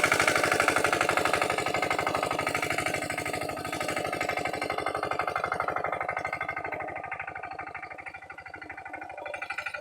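Lombardini diesel engine of a Pasquali 946 tractor running with a rapid, even chug of about ten firing pulses a second. It fades after about six seconds and grows louder again near the end.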